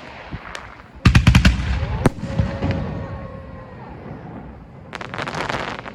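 Aerial fireworks bursting at close range: a rapid string of sharp bangs about a second in, one more loud bang shortly after that fades away, then a dense crackling shower near the end.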